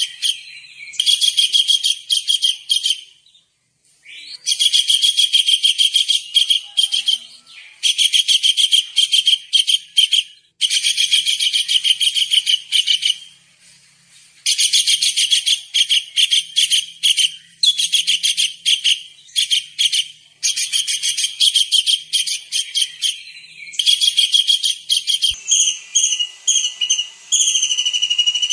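Kingfisher (tengkek udang) calling: rapid, high-pitched trilled chatters in bursts of one to two seconds, separated by short pauses. Near the end the trill gives way to a steadier, drawn-out high whistle.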